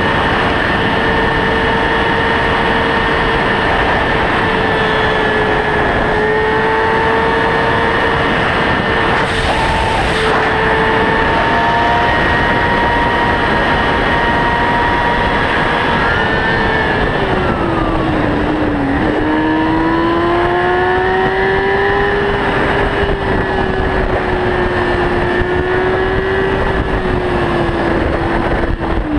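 Sport motorcycle engine running hard at high revs under a steady rush of wind and road noise. Its pitch holds steady, drops about two-thirds of the way through as the bike slows, then climbs again as it accelerates.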